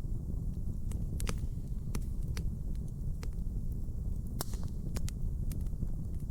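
Wood fire burning in a hearth: a steady low rumble with irregular sharp crackles and pops, the loudest about four seconds in.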